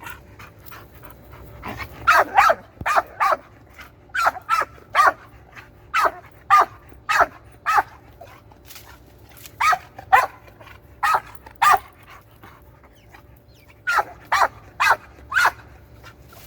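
Dog barking repeatedly in runs of two to five sharp barks with short pauses between, as it tries to flush birds out of a tree.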